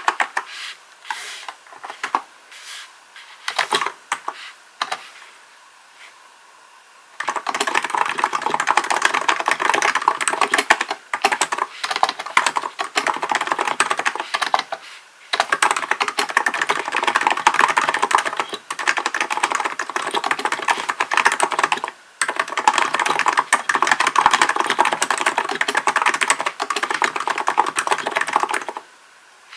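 Typing on a Hansung GK898B capacitive (non-contact) mechanical-style keyboard: a few scattered keystrokes at first, then fast, continuous typing from about seven seconds in, broken by short pauses.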